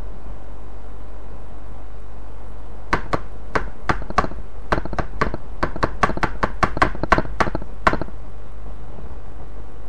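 A quick, uneven run of about twenty sharp knocks or taps lasting about five seconds, over a steady low hum.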